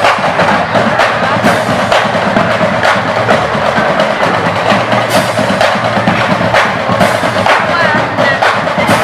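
Loud drum-led music with a steady beat of about two sharp strokes a second.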